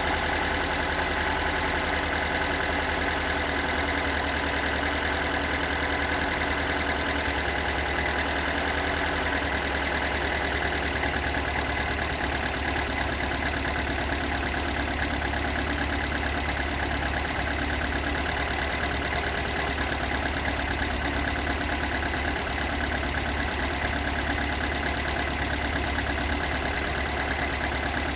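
Toyota 4A-GE 1.6-litre twin-cam four-cylinder engine idling steadily. The owner reports a rough idle and a knocking sound whose cause he has not been able to find.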